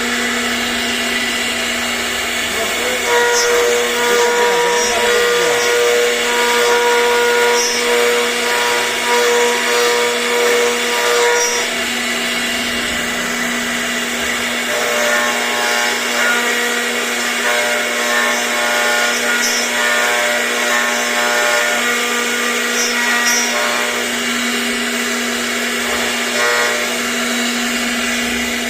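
CNC router running a 3D carving job: the spindle makes a steady whine throughout, and higher motor tones start, stop and change pitch several times as the machine moves.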